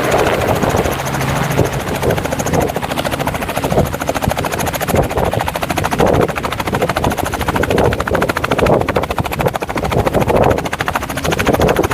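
Robinson helicopter coming in to land close by: loud, steady rotor and engine noise with a rapid, even beat of the blades.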